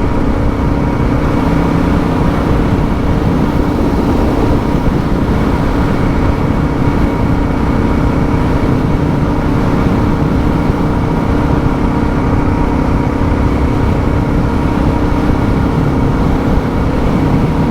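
Suzuki DR650's single-cylinder engine running at a steady cruise on a tarred road, heard from the rider's helmet camera with wind and road rumble on the microphone.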